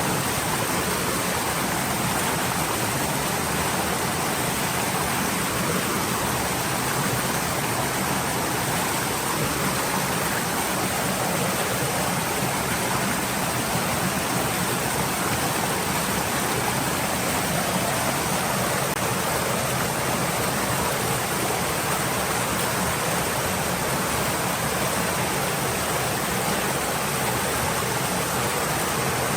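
Stream water flowing and splashing over stones: a steady, even rush with no breaks.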